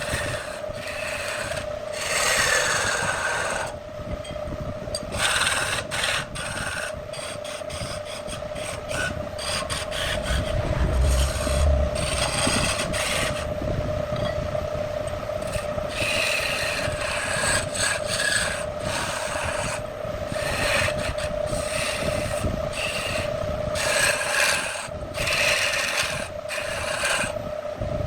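Wood lathe running with a steady hum while a turning tool cuts into the spinning wood in repeated scraping passes of uneven length.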